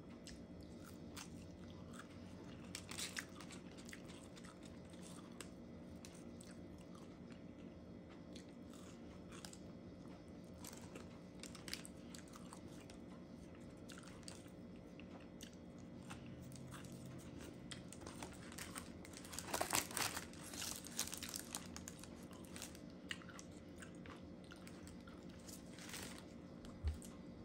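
Faint crunching and chewing of a McDonald's hash brown, in scattered small bites with a busier stretch about two-thirds of the way through, over a steady low hum.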